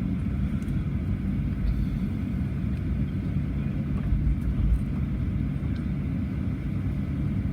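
Steady low cabin rumble of a Boeing 737-800 taxiing with its CFM56-7B engines at idle, heard from inside the passenger cabin.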